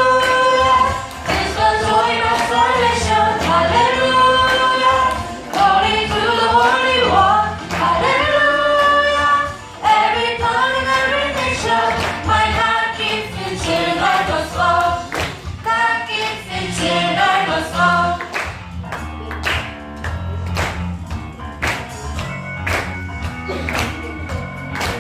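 Group of voices singing a worship song over a band with drums and bass. The singing drops back about two-thirds of the way through while the band plays on.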